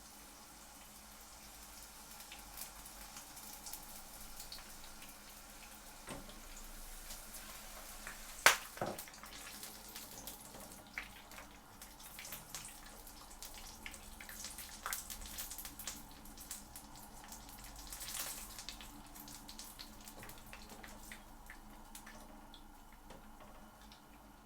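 Battered prawns frying in hot oil: a steady sizzle with many small crackles and pops, and one sharp click about a third of the way in.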